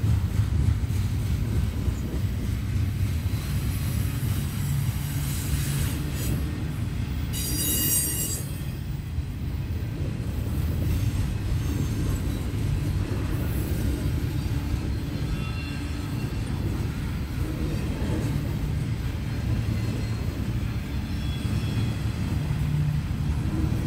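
Double-stack intermodal freight train rolling past: a steady low rumble of wheels on rail, with a brief high-pitched squeal about eight seconds in.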